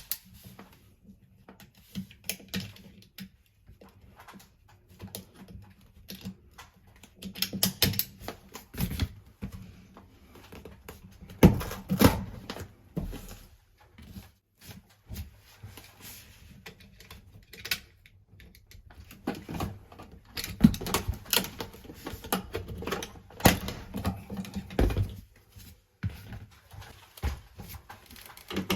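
Irregular clicks, taps and knocks of hand work on metal and plastic plumbing fittings, with a few louder knocks about twelve seconds in and again later on.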